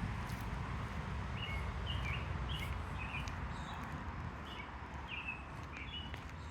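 A small bird calling a quick series of short chirps over a steady low rumble.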